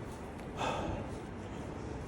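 A cyclist's heavy breathing from exertion, with one loud breath about half a second in, over a steady low rumble of wind and road noise.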